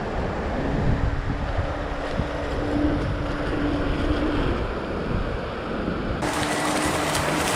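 Wind buffeting the microphone over rough water, with a faint steady hum through much of it. About six seconds in, the sound jumps abruptly to a brighter, hissier rush of wind and waves.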